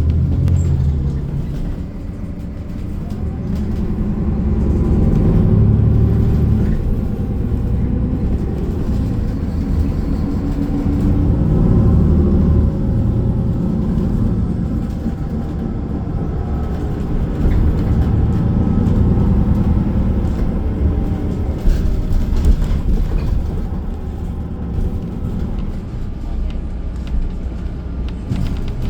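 A city bus's engine and road noise heard from inside the cabin while it drives, swelling and easing as it speeds up and slows.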